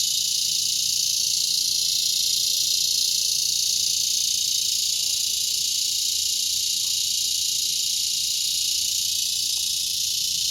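Chorus of cicadas, a loud continuous high-pitched buzz with no breaks, easing slightly near the end.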